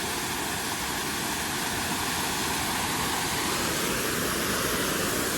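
Rushing water of a rocky creek and its small falls, a steady, even roar of noise.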